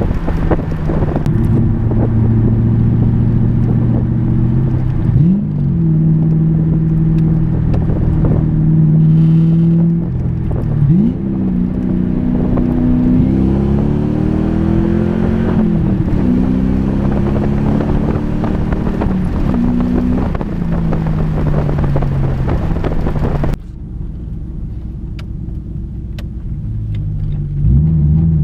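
1996 Ford Mustang GT's 4.6-litre V8 under way: a steady drone at first, then pulls where the pitch climbs and drops back at each gear change. It cuts suddenly to a quieter stretch near the end before revving up again.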